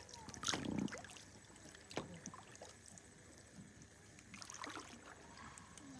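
Water splashing and trickling in small irregular bursts, with a sharp knock about two seconds in.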